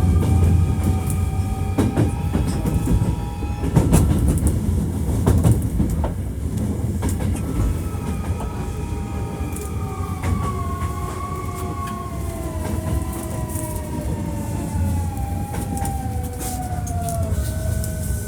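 Electric train sound: a low rumble with scattered clicks, and an electric whine of several tones that glides steadily down in pitch over the second half. A new steady high tone comes in near the end.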